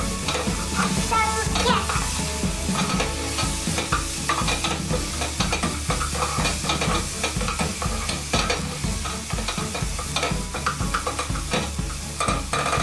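Chopped onions, bacon and yellow peppers sizzling in a pot while a spoon stirs them, scraping and knocking against the pot with many short, irregular strokes.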